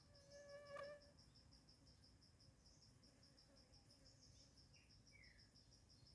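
Faint, steady high-pitched insect chirping, pulsing about five times a second. A short pitched call rises above it about a second in, and faint bird-like chirps come about five seconds in.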